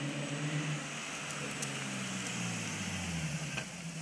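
Infiniti G37's 3.7-litre V6 running through an HKS Hi-Power aftermarket exhaust, a low exhaust note that holds steady, then drops in pitch about two to three seconds in.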